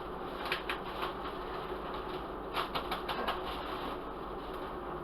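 Light clicks and taps from handling seasoning containers, a few single clicks early and a quick cluster of them a little before the halfway point, over a steady background hiss.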